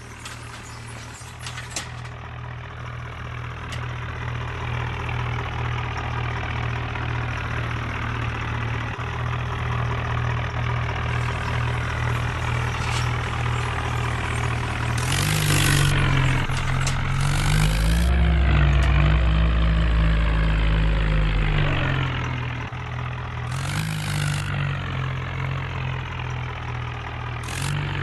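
Diesel tractor engine running and growing steadily louder, revved up about halfway through with a deep rumble for a few seconds before easing back to a steady run.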